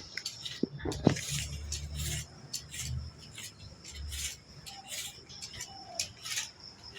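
A cat eating, with irregular crunchy clicks and rustles of chewing and handling.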